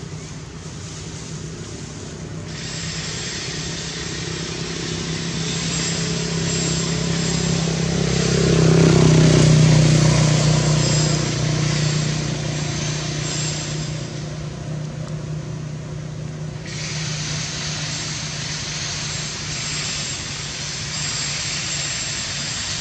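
A motor vehicle passing, its low engine hum growing louder to a peak about nine seconds in and then fading. A high steady hiss starts sharply a couple of seconds in and stops about two-thirds of the way through.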